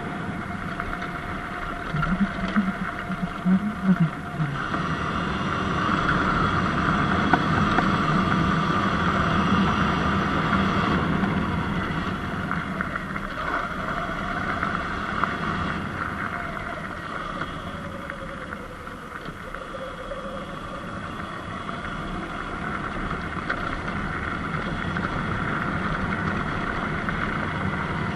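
Riding noise from a Surron Light Bee electric dirt bike: a steady rush of wind and tyre noise, with faint tones of the drive rising and falling. It gets louder about five seconds in and eases off near twenty seconds.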